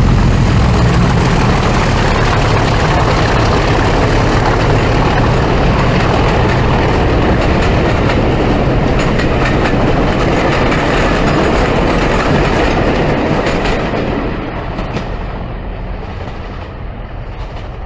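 Diesel locomotive-hauled train running, with a deep engine note and rail noise, fading away over the last four seconds.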